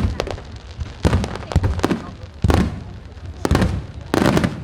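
Aerial fireworks shells bursting one after another, a sharp bang about every half second to second, each followed by a rumbling echo.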